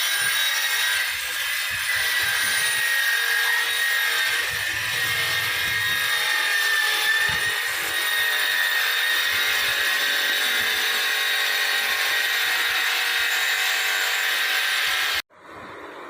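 Electric power tool running steadily under load with a high whine, as in grinding or finishing a knife blade; it cuts off suddenly near the end.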